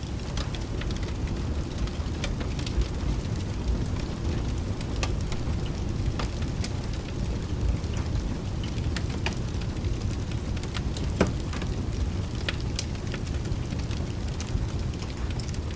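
Fireplace crackling with scattered sharp pops, one louder pop about eleven seconds in, over a steady low rumble of rain.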